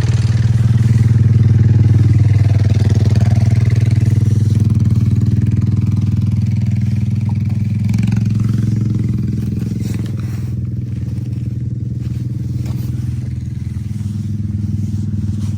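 Small off-road engine running at a steady, even speed, easing slightly quieter about ten seconds in.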